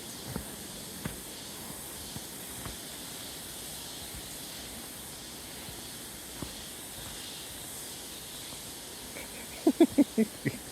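A steady high hiss of the forest surroundings, with a few faint ticks. Near the end comes a quick run of about six short, loud, pitched sounds.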